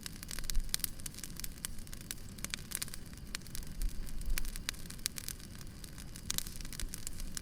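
Wood fire crackling: irregular sharp pops and snaps over a steady low rumble, with a couple of soft low thumps about half a second and about four seconds in.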